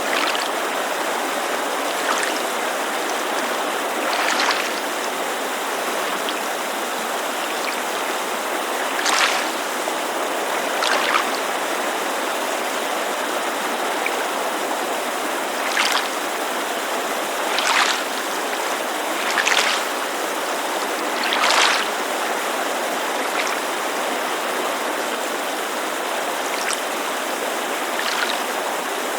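Steady rushing white noise of a mountain creek, with water lapping against a lakeshore in about a dozen short, irregular splashes.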